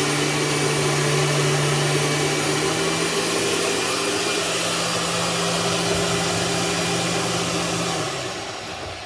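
Dirt Devil vacuum cleaner motor running steadily with a low hum and airy whine, then winding down about eight seconds in.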